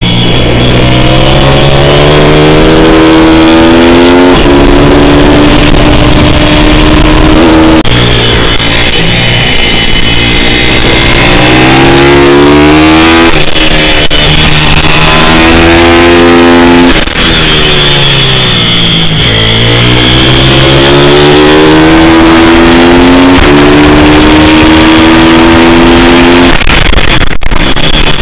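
A pit bike's small single-cylinder four-stroke engine ridden hard, the revs climbing through each gear and dropping back at the shifts and at braking, over and over. The sound is very loud and saturated.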